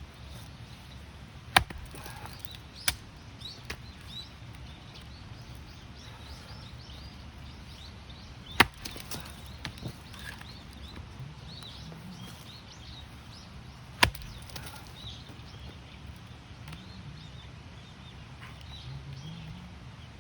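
Axe splitting firewood: four sharp chopping strikes into a log, the first two about a second apart and the other two several seconds apart, each followed by a smaller knock or two. The wood is a knotty round that won't split.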